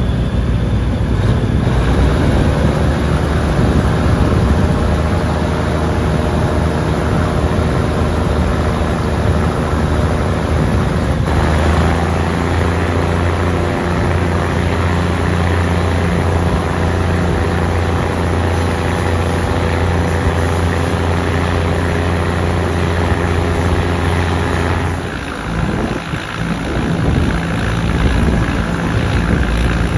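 Diesel engine of a moving passenger train running steadily, with wheel and wind noise through an open carriage window. The engine hum grows stronger about eleven seconds in, drops briefly near the end and picks up again.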